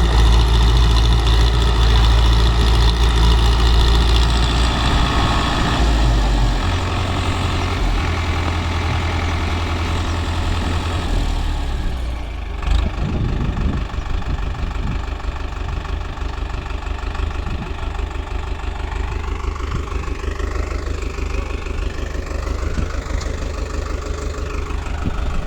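Tractor engine running at idle, a steady low engine sound whose note shifts a few seconds in. A single brief knock comes about halfway through.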